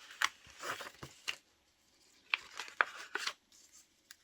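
Scissors snipping through paper: a string of short, irregular cuts with light paper rustling between them.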